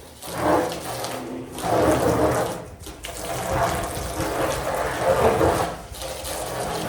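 Water splashing and spraying in repeated surges, each swelling and falling away about every second and a half, as when a garage is being washed down.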